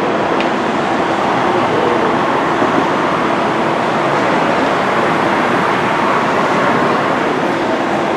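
Steady vehicle noise: a continuous rushing rumble with a faint hum underneath, without breaks.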